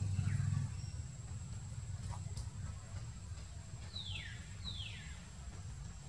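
A low rumble, loudest in the first half second, under two quick whistled calls about four seconds in, each falling steeply in pitch: a bird calling.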